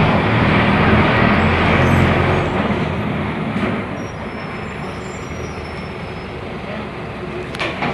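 Mercedes-Benz OF-1418 bus's front-mounted diesel engine running under way: a strong low drone for the first two to three seconds, then easing off and quieter. A couple of short clicks come near the end.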